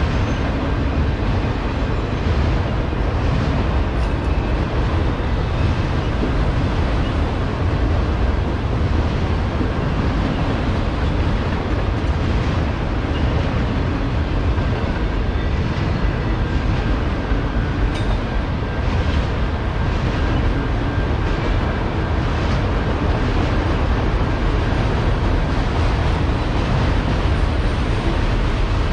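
Freight train of autorack cars rolling steadily past, a continuous noise of steel wheels on the rails.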